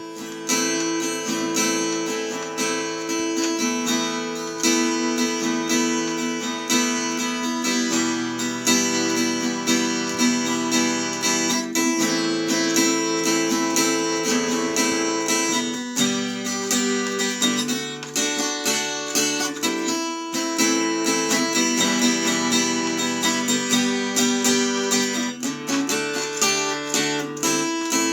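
Acoustic guitar music: strummed chords at a steady, even level.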